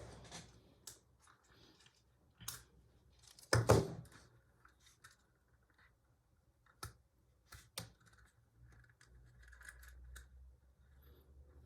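Scattered clicks and rustles of small plastic Lego pieces being handled and sorted through, with a louder rustling knock about three and a half seconds in.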